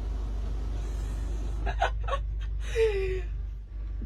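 A few short clicks, then a brief gasp-like vocal exclamation falling in pitch, over a steady low cabin hum.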